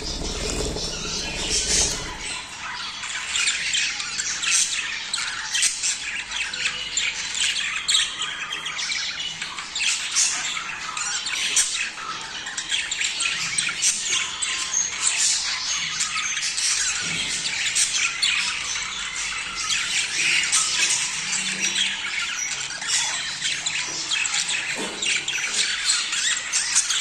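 A flock of budgerigars chattering and squawking without pause, many chirps and warbles overlapping. A low rumble sits under the calls in the first two seconds.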